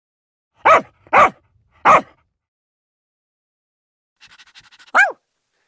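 Dog barking: three short barks in quick succession, then after a pause a faint rapid ticking and one more bark near the end.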